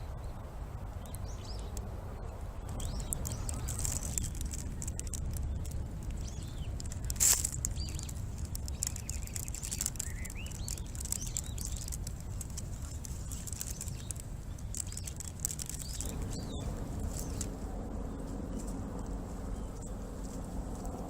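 Small birds chirping now and then over a steady low outdoor rumble. Faint clicks run throughout, and one sharp, loud click comes about seven seconds in.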